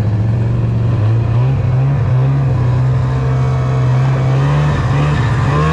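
Snowmobile engine running steadily under way, its note holding fairly even with small rises in pitch.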